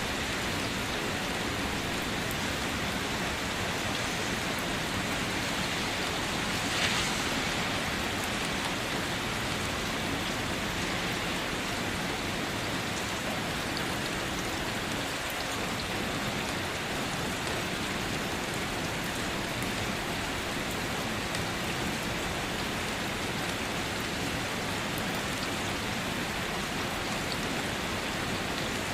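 Steady rain falling, an even hiss with many fine drop ticks, and one louder splash or drip about seven seconds in.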